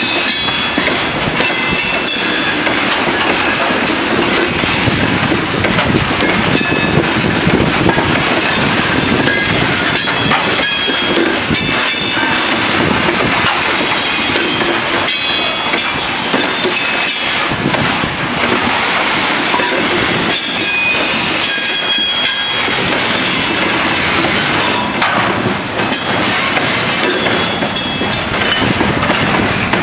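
Freight train wagons rolling past: a steady rumble of wheels on rail, with clicks over the rail joints and short, high metallic wheel squeals.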